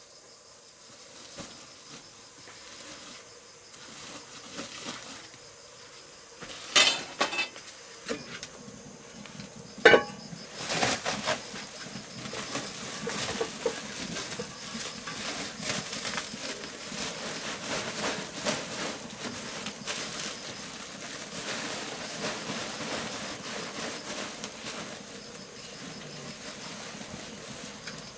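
A few sharp knocks, then a long stretch of busy clattering and scraping, like objects being handled or worked, over insects chirping.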